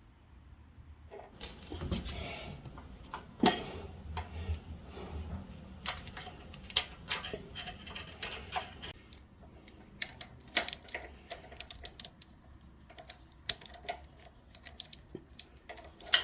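Metal parts and hand tools being handled while fitting a motorcycle motor mount: a brief scrape about a second in, then irregular sharp clicks and clanks, a few louder knocks among them.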